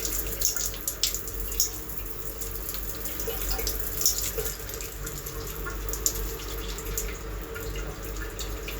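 Water spraying from a multi-mode handheld shower head running on low water pressure, a steady hiss with irregular splashes and spatters throughout.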